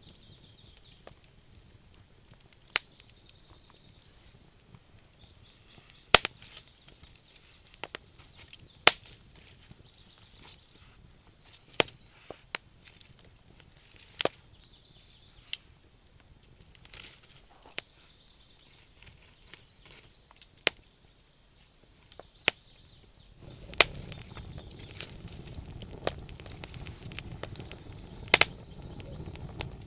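Wood fire burning in a stove, crackling with sharp pops at irregular intervals. About two-thirds of the way through, a steadier low rushing sound of the flames sets in under the pops.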